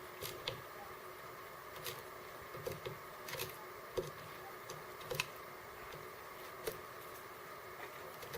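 Birds pecking at seeds at a feeder: irregular sharp taps and clicks, some in quick pairs, over a steady faint hum.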